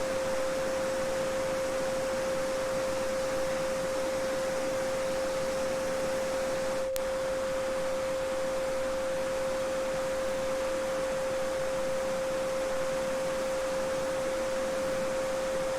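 A steady 528 Hz sine tone held without change over the even rushing of a small babbling brook, with a single faint click about seven seconds in.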